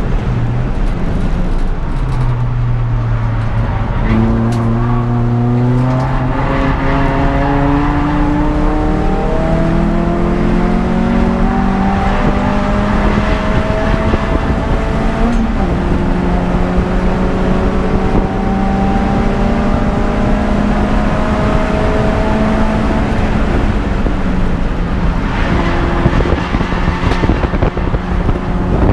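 Peugeot 206 GTI's four-cylinder engine under racing load: the note jumps up about four seconds in and climbs steadily for several seconds, drops sharply at an upshift about halfway, then holds high and rises slowly again. Loud road and wind noise runs underneath.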